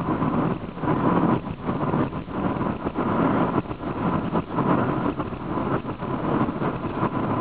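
Honda car driving along a highway: steady road and engine noise, uneven in loudness.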